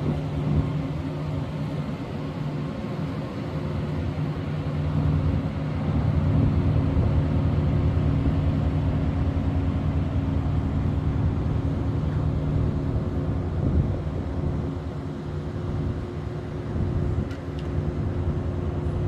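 Boat engine running steadily at a constant speed, a low even drone.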